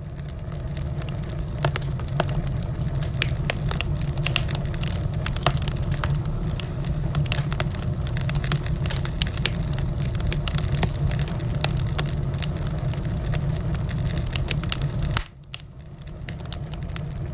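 Wood fire in a fireplace crackling, with frequent sharp pops and snaps over a steady low rumble of the flames. The sound drops abruptly quieter about fifteen seconds in, then builds back.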